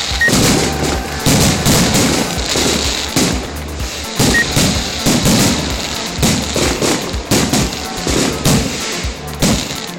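Aerial fireworks bursting in a rapid series of bangs and crackles, about one to two a second, with music playing underneath.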